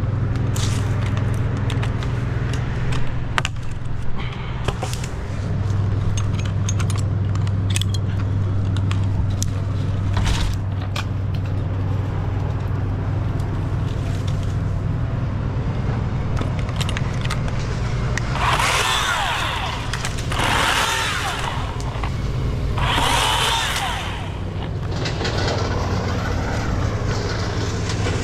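An engine running steadily at idle throughout, with three short bursts of noise about two-thirds of the way in and a weaker one near the end.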